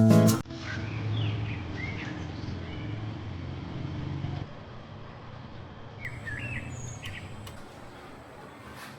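Birds chirping in short bursts, twice, about a second in and again around six seconds, over a steady low hum that fades out about halfway. Acoustic guitar music cuts off right at the start.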